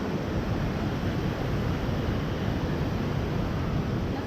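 Large waterfall rushing: a steady, even roar of falling water.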